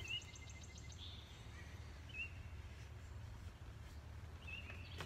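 Faint outdoor ambience: a small bird gives several short, high chirps a second or two apart over a low, steady background hum.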